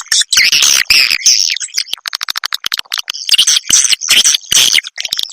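Edible-nest swiftlet (walet) calls: loud, fast high-pitched chattering chirps, with a run of rapid clicks from about two seconds in.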